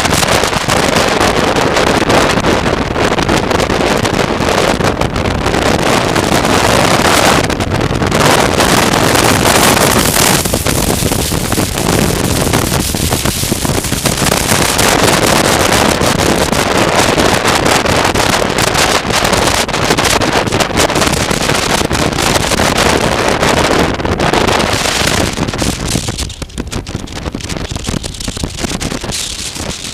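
Heavy wind buffeting on a microphone mounted on a moving motorcycle, with road and engine noise underneath; it eases a little near the end.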